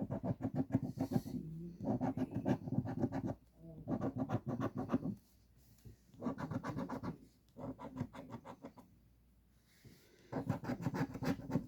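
Scratch-off lottery ticket being scratched to uncover its numbers: quick rasping strokes in about six runs of one to two seconds each, with short pauses between them.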